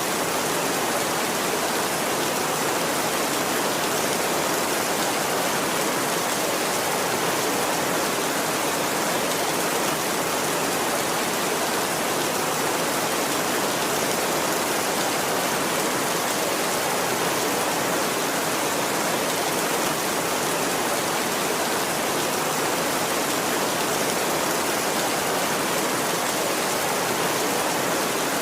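Heavy rain falling steadily on a tin roof, an even, unbroken rush with no thunder.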